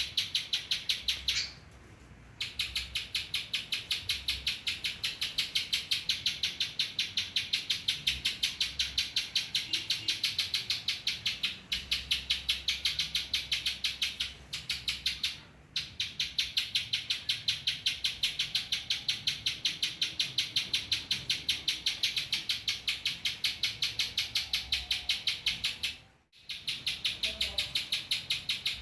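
Spiderhunter (pijantung) calling a sharp, high note over and over, about three to four times a second, in long runs broken by short pauses. Its song is filled with phrases learned from the bar-winged prinia (ciblek).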